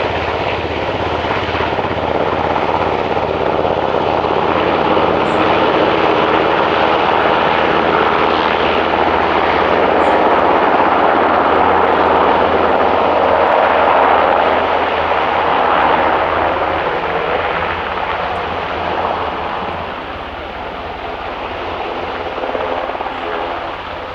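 Aircraft engines running loudly as an aircraft passes, with a rapid low beat under the roar; the noise builds to its loudest in the middle and eases off over the last few seconds.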